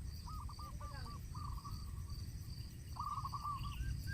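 Bird calls: short runs of quick, looping warbled notes, repeated a few times, over a steady high insect buzz and low rumble.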